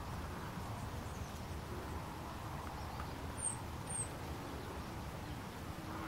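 Two short, very high chirps from a small bird about half a second apart, around three and a half seconds in, over a steady low rumble of outdoor background noise.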